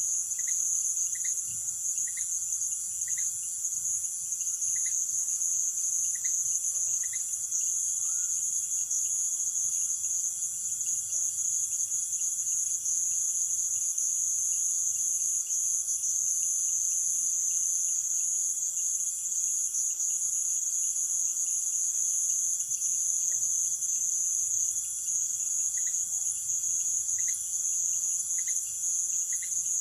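Amazon rainforest night chorus of insects: a steady, very high-pitched shrill trilling. A short lower note repeats about once a second during the first few seconds and again near the end.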